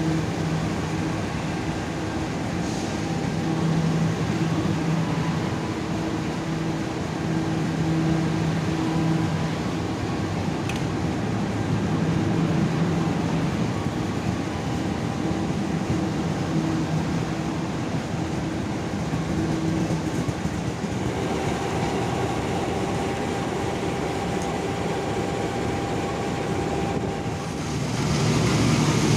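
A train running at a railway station: a steady rumble with a low, humming drone that comes and goes, growing louder near the end.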